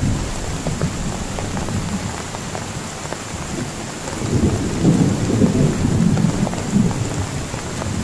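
Heavy rain falling steadily, with a low rumble of thunder that swells about four seconds in and dies down near the end.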